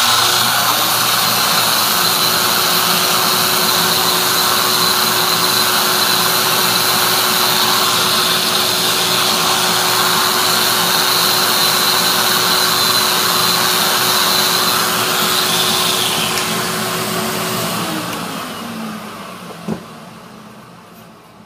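Electric sander running steadily as it smooths a Baltic birch plywood part with 120-grit paper. About 17 seconds in it is switched off and winds down, its pitch falling as it fades, followed by a single short knock.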